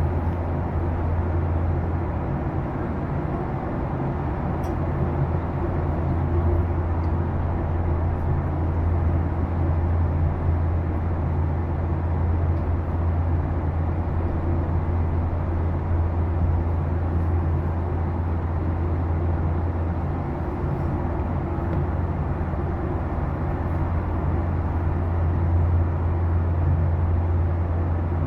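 Steady cabin noise of a Boeing 737-800 with its CFM56-7B engines running under power, heard from an economy seat. The noise is an even rumble that holds at one level throughout.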